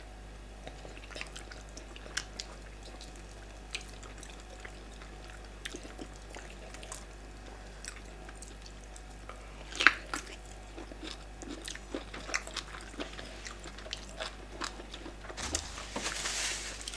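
Close-miked mukbang eating: soft wet chewing, lip smacks and mouth clicks from people eating yam fufu and bitter leaf soup by hand, with one sharp smack about ten seconds in. Near the end, a paper tissue rustles as a face is wiped.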